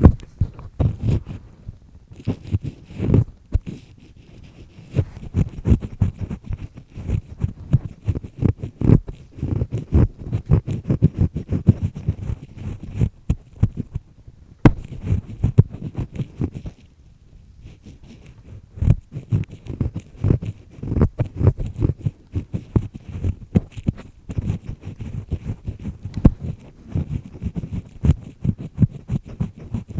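Ear pick scraping inside a person's ear canal: a dense run of crackly, grinding scrapes, with short pauses about 4 seconds in and about 17 seconds in.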